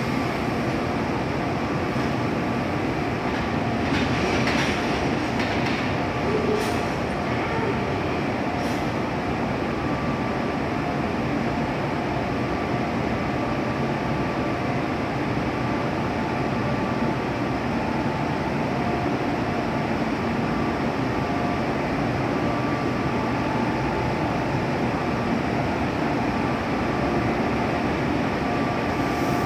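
Freight train rolling along the track: a steady rumble of wheels on rail with a faint steady hum, and a few sharp clicks in the first nine seconds or so.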